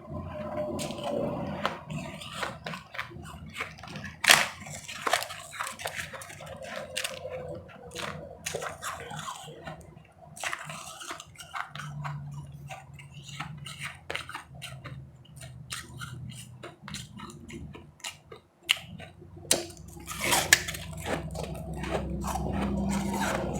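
Close-miked chewing and biting of powdery ice chips: irregular crisp crunching and crackling, with a few louder snapping crunches now and then.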